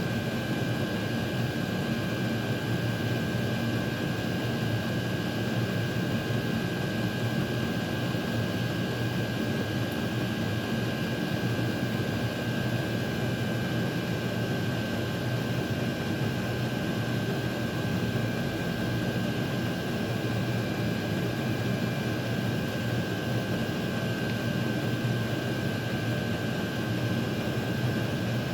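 Blower fans of Chinese diesel air heaters running steadily in their cool-down cycle: an even rush of air with a thin, constant high whine.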